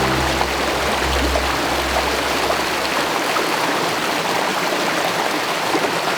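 Water rushing steadily in a forest stream. The low tail of background music fades out about halfway through.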